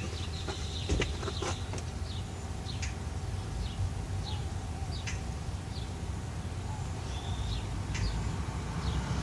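Birds chirping: short, high, falling calls repeated every second or so, over a steady low rumble. A few light clicks about a second in.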